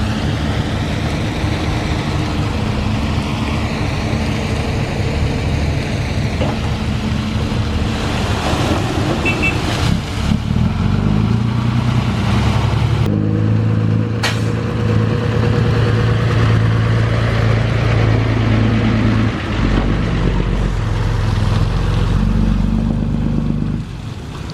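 Diesel engines of heavy construction machinery running, the engine note shifting about ten seconds in and again a few seconds later, with a sharp knock about fourteen seconds in.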